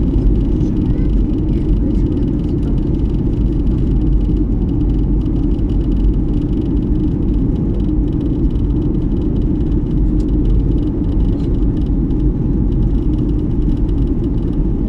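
Steady low rumble of an airliner in flight, the engine and airflow noise heard inside the passenger cabin.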